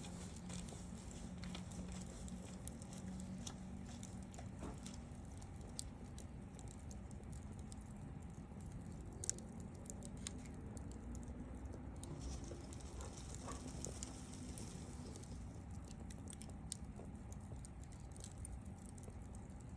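Wood fire crackling: scattered small pops and snaps over a steady low hiss, with one sharper pop about nine seconds in.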